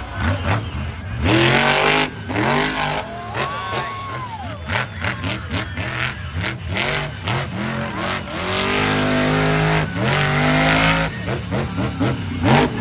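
Monster truck engine revving hard, its pitch climbing and dropping again and again, with several stretches at full throttle.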